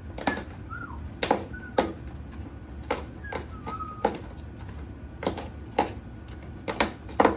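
A cockatoo chewing and tearing cardboard with its beak: irregular sharp crunches and snaps, roughly two a second. A few soft, short chirps from the bird come in the first few seconds.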